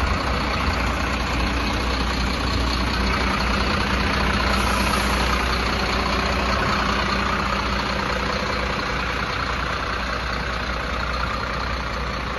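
Diesel engine of a 2009 Mercedes Axor 2633 concrete mixer truck idling steadily.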